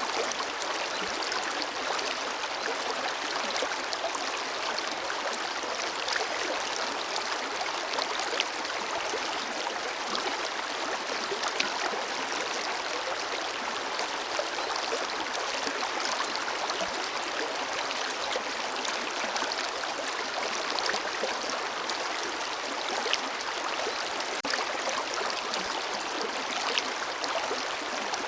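Forest river flowing steadily over rocks: an even rush of water with small splashes and gurgles throughout.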